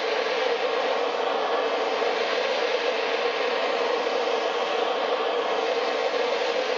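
Steady, unbroken rushing noise of a heat tool playing on the piston to expand it and free a seized gudgeon pin.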